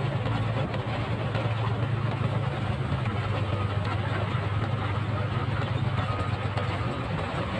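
Motorcycle engine running at a steady speed while riding, under a steady rushing noise.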